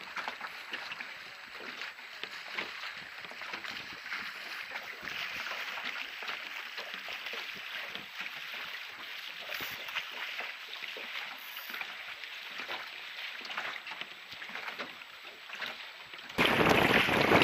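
Water rushing and splashing along a sailboat's hull, a steady hiss full of small crackles. About a second before the end it cuts suddenly to much louder wind buffeting the microphone.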